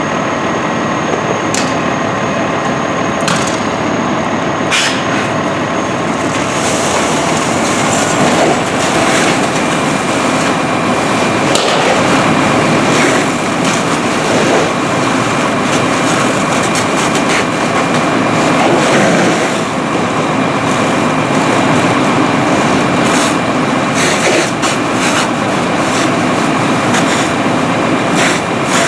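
Inside the cab of a moving fire engine: steady engine and road noise, with loose rattling and clicking throughout.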